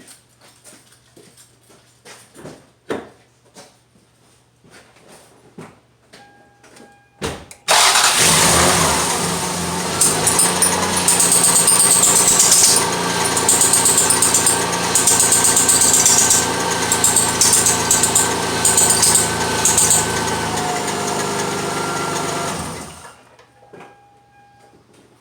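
A few small knocks and clicks, then the 1992 Lexus ES300's 3.0-litre V6 starts about seven seconds in and runs for about fifteen seconds with a high-pitched squeal over it, which comes and goes while the steering wheel is turned, before the sound stops fairly quickly. The squeal on steering is the owner's complaint, which the mechanic puts down to a loose drive belt.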